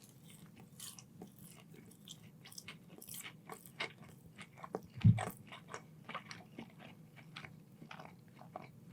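Close-miked chewing and crunching of crunchy food, with many small irregular crackles and mouth clicks and one louder low bump about five seconds in.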